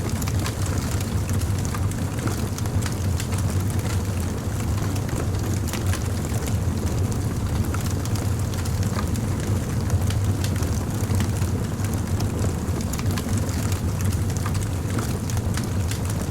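Fire crackling: many small irregular pops and snaps over a steady low rumble.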